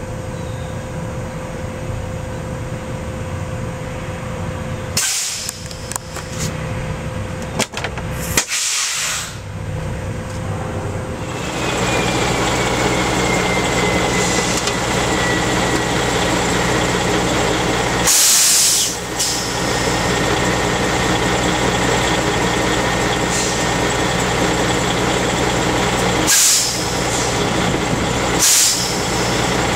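2005 Freightliner M2's diesel engine idling steadily, running louder from about a third of the way in, with a thin whine that slowly falls in pitch. Several short bursts of air hiss come from the truck's air brake system.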